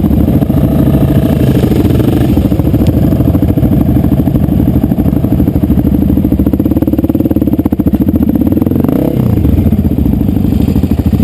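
Dirt bike engine running loudly and steadily under way, with its pitch dropping briefly about nine seconds in.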